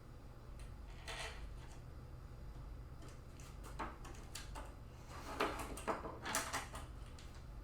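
Small hardware parts being handled and fitted by hand: scattered light clicks and knocks, busiest and loudest in the second half, over a steady low hum.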